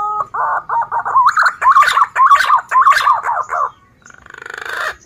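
Male green pigeon (punai daun) singing: a rising whistled glide, then a run of warbling, fluty notes that bend up and down. About a second before the end comes a short buzzy, rapidly pulsing call.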